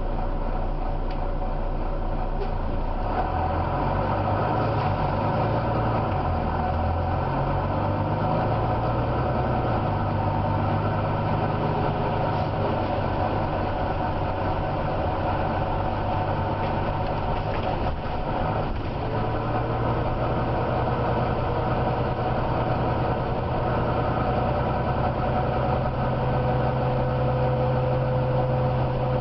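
Volvo B9TL double-decker bus's diesel engine running with a deep growl. Its pitch shifts up and down in the first half, then holds steadier from about two-thirds of the way in.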